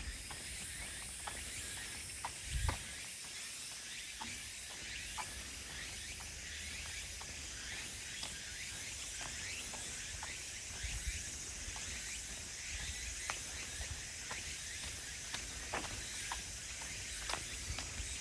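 Footsteps on a woodland path at a steady walking pace, about two a second, under a continuous high-pitched chorus of insects.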